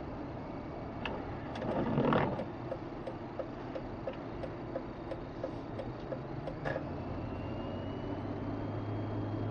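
Steady road and engine noise heard inside a car driving on a highway. About two seconds in there is a brief louder rush, followed by a run of even ticks, about three a second, that lasts several seconds.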